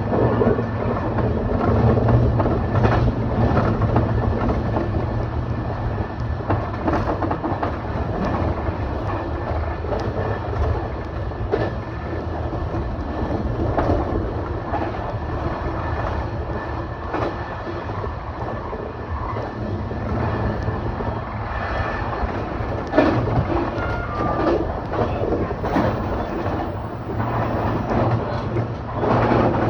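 Electric train running, heard from inside the carriage: a steady rumble of wheels on rail with irregular clicks and knocks.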